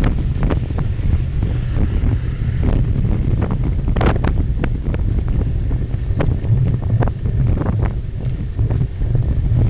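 Wind buffeting the microphone in a steady low rumble, with scattered clicks and knocks, the rattle of a cyclocross bike ridden over rough ground; one sharper knock about four seconds in.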